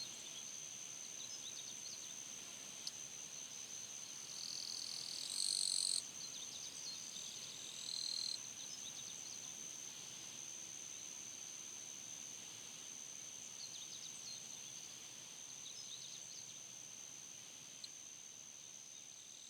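Insects in summer grass keeping up one steady high-pitched trill, with scattered short bird chirps over it. A louder call about five seconds in and a shorter one near eight seconds.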